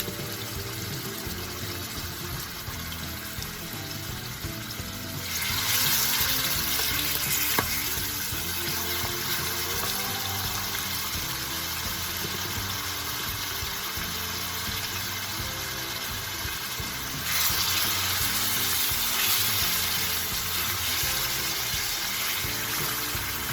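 Marinated pork tocino slices sizzling in a pan, a steady hiss that gets suddenly louder twice, about five seconds in and again near seventeen seconds, over background music.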